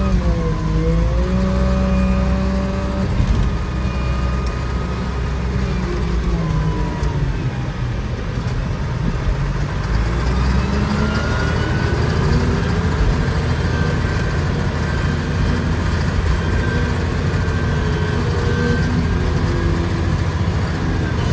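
An engine running under changing load, its pitch dipping and rising as the revs change, with a heavy low rumble throughout.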